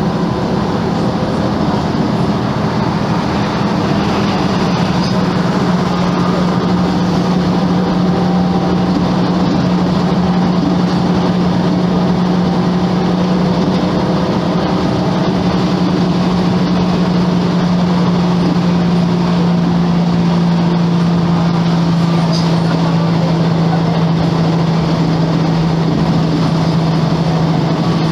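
Volvo B10M bus's six-cylinder diesel engine running at a steady speed under way, a constant drone whose pitch sinks slowly.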